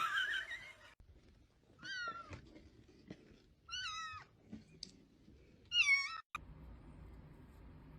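A cat meowing three times, each call short and about two seconds apart.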